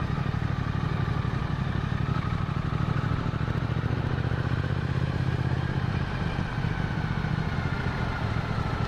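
Motorcycle engine running steadily at cruising speed, heard from the rider's onboard microphone, a low pulsing drone with a faint steady whine above it.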